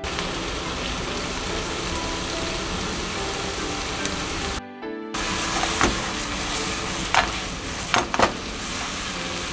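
King oyster mushrooms and peppers sizzling as they stir-fry in a hot pan, a steady hiss, with a few sharp knocks in the second half.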